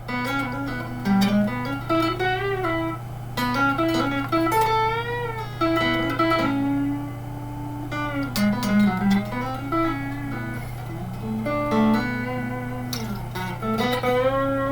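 Fender electric guitar, freshly strung with Yamaha super-light 009–042 strings, played through an old Fernandes amplifier: single-note lead lines with string bends and vibrato. A steady low hum runs underneath.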